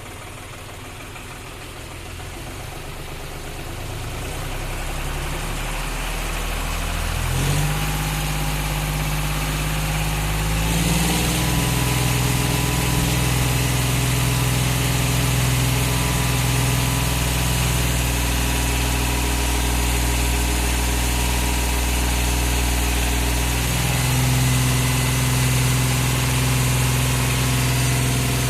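John Deere 5105 tractor's diesel engine running, growing louder over the first several seconds, then running steadily and loud. Its engine speed steps up twice around eight and eleven seconds in, and shifts slightly again near the end.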